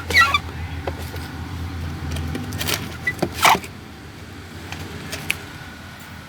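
Mini toy RC car's small electric motor whirring for about two and a half seconds, with sharp plastic clicks and knocks scattered through, the loudest a little after three seconds in.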